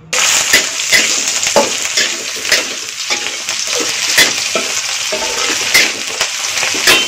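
Chopped onions sizzling in hot oil in a frying pan, the sizzle starting suddenly as they go in, with repeated scrapes of a spatula stirring them.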